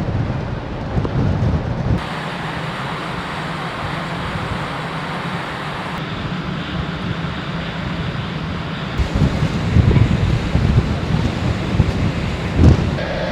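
Wind buffeting the microphone over a steady rush of sea and ship noise, with heavier gusts about nine seconds in and near the end; the noise changes abruptly a few times, as at cuts between shots.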